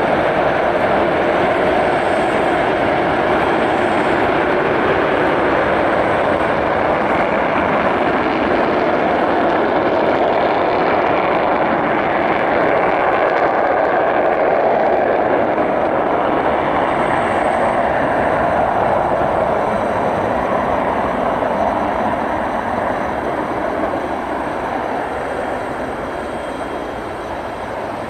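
Tu-160 bomber's four NK-32 afterburning turbofans at takeoff power with afterburner: a loud, steady rush of jet noise that slowly fades over the last several seconds.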